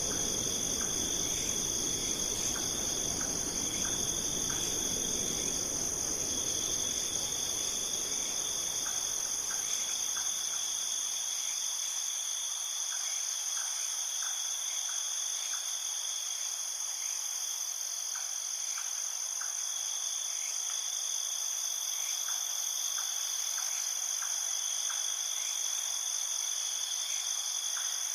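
Steady chorus of crickets or similar insects, a continuous high trill with faint scattered ticks. A low rushing noise underneath fades out over the first third.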